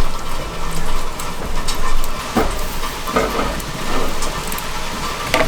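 Food sizzling over charcoal on an open PK grill, a steady hiss with scattered crackles and pops.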